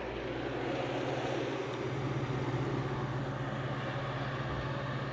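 Early-1990s Capehart 40-pint dehumidifier running: a steady low hum from its compressor with the rush of its fan, with no rattling.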